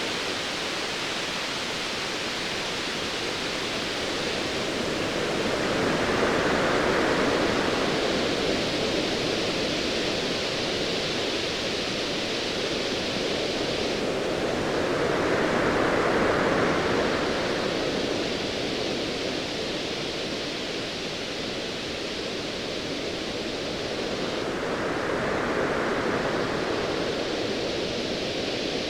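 Ocean waves washing in over a steady hiss of surf, swelling and easing three times, about nine seconds apart.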